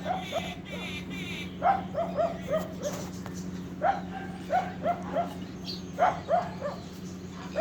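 A dog barking in three quick bouts of four or five short barks each, over a steady low hum.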